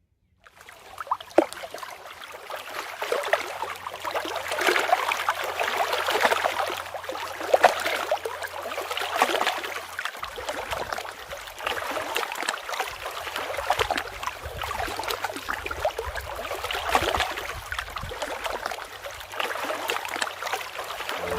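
Running water splashing and gurgling, like a small stream, with a continuous rushing sound full of small crackles.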